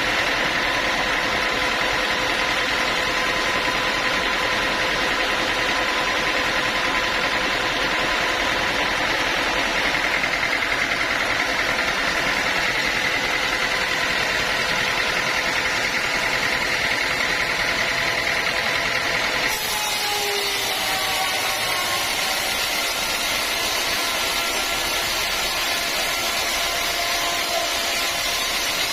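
Sawmill machinery running steadily: an engine and saw with a held high whine. The sound changes abruptly about two-thirds of the way through, where the whine drops away.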